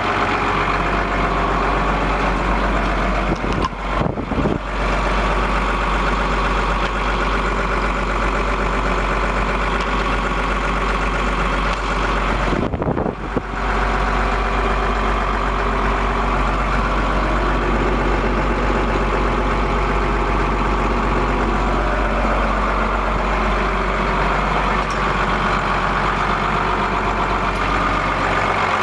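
New Holland TM135 tractor's six-cylinder diesel engine running steadily at idle, with two brief dips about four and thirteen seconds in.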